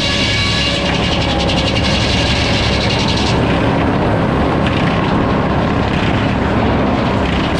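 Sawmill running during sawing: a loud, steady machine drone with no break, its higher hiss thinning out about three seconds in.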